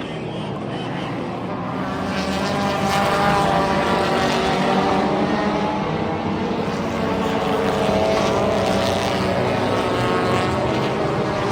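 Several front-wheel-drive race cars' engines running hard on an oval track, a mix of engine notes rising and falling as the cars come round.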